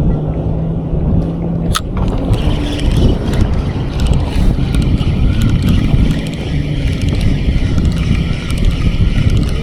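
Wind buffeting the microphone on open water, with a low droning hum that steps in pitch a few times and a single sharp click about two seconds in.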